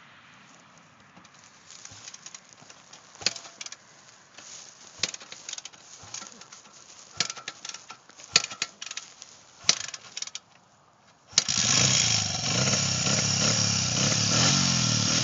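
Honda CRF80 dirt bike's small four-stroke single: a run of irregular mechanical clicks and clunks while it is being readied and kicked over, then about eleven seconds in the engine fires and keeps running steadily.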